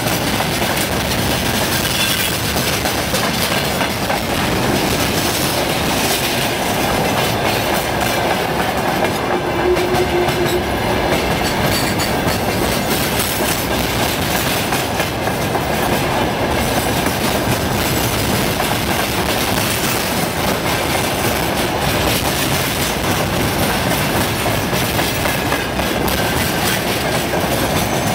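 Freight train wagons rolling past, a loud steady rumble with wheels clattering over the rail joints, and a brief faint squeal about ten seconds in.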